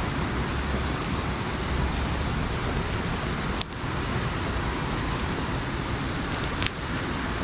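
Wood campfire burning: a steady hiss with a few sharp crackles, one a little past the middle and a short cluster near the end.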